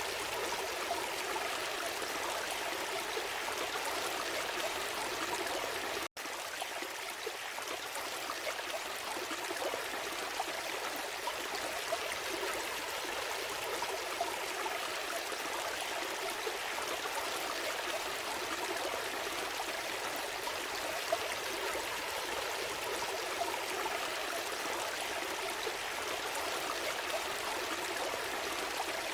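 Forest stream flowing steadily, a continuous rushing and trickling of water. About six seconds in, the sound cuts out for a split second and resumes.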